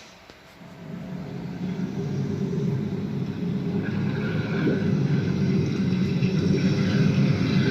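Playback through Pioneer speakers and a 6-inch subwoofer during a sound test: a low rumble that builds steadily louder, with a fainter higher tone joining about halfway in.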